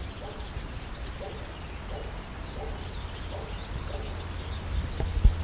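Wild birds chirping with many short, repeated high calls, over a steady low rumble. A single sharp knock near the end.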